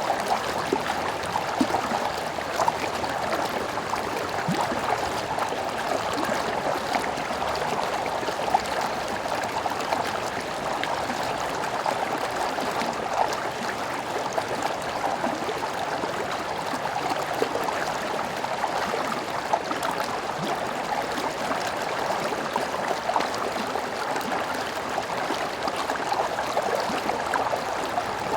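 Stream water running steadily, an even rushing with small splashes throughout.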